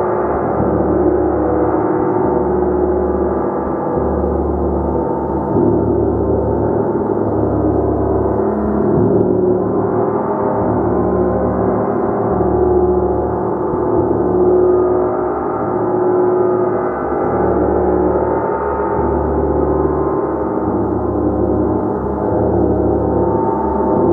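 Gong played continuously, a dense wash of many overlapping tones that swells and ebbs slowly, with no pauses.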